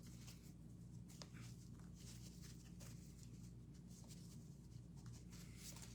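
Near silence: a steady low hum with a few faint scattered clicks from hands tying string around sticks.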